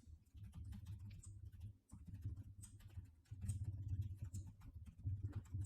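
Faint, irregular clicks and taps of a computer mouse and keyboard being used, over a low rumble that comes and goes.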